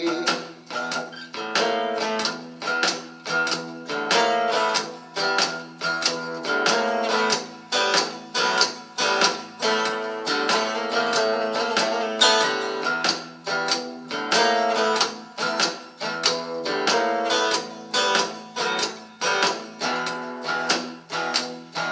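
Acoustic guitar strummed in a steady rhythm, chords ringing between the strokes, in an instrumental passage without singing.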